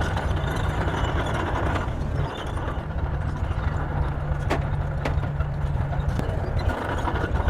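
Heavy bulldozer diesel engine running steadily under load, with a few sharp knocks about halfway through.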